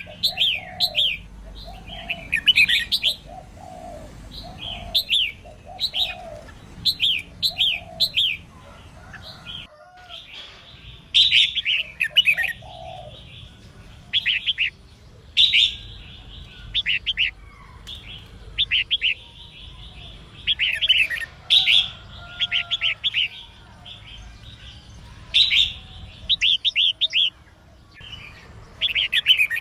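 Female red-whiskered bulbul singing: short, bright chirping phrases repeated every second or so, with a brief break about a third of the way in. Softer, lower notes sound under the phrases in the first third.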